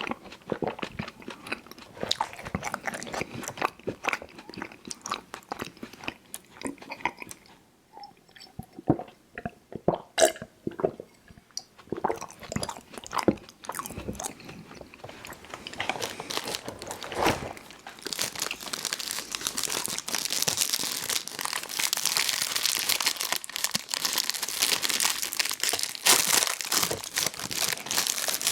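Close-miked chewing of chewy fruit candies: wet smacking and sticky mouth clicks with some crunch. About two-thirds of the way in, a steady, dense crinkling of plastic candy packaging takes over.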